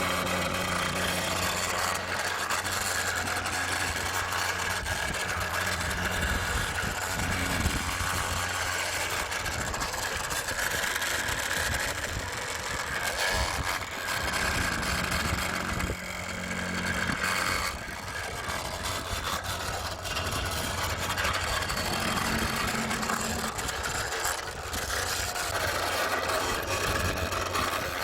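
Radio-controlled model trucks running: a steady engine-like hum that drops and returns a few times, over a continuous high whirring of small motors and gears.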